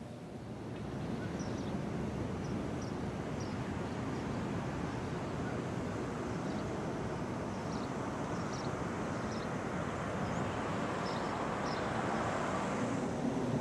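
Steady outdoor rushing noise that swells about a second in and builds slightly toward the end, with small birds chirping faintly and briefly every second or so.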